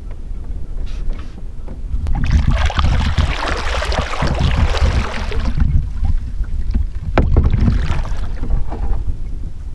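Tidal water rushing through a seawall gap around a small sailing dinghy, with wind buffeting the microphone as a steady low rumble. The rush swells loudest for a few seconds about two seconds in, with a few sharp knocks from the boat.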